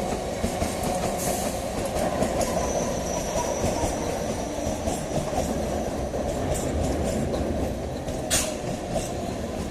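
EMU local train running into the station, a steady rumble and clatter of wheels on rail. A thin high squeal from the wheels rings for a couple of seconds about a third of the way in, and a single sharp click comes near the end.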